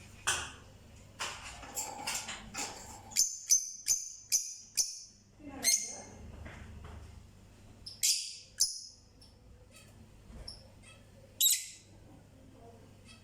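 Small birds chirping in short, sharp, high calls: a quick run of about half a dozen a few seconds in, then single chirps a few seconds apart.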